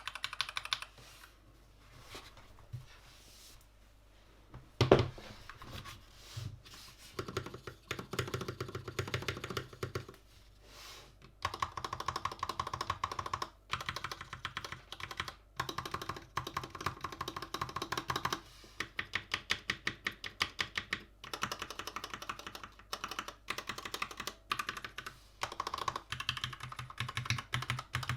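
Typing on a Gamakay LK67 mechanical keyboard with Gateron red linear switches: fast runs of key clacks broken by short pauses, with one louder thump about five seconds in.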